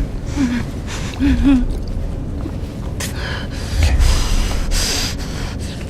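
A woman gasping and whimpering in pain, short strained cries early on followed by sharp ragged breaths, over a steady low rumble.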